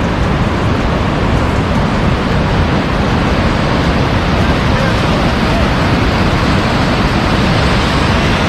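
Waterfall rushing: a loud, steady roar of falling water, close to the microphone.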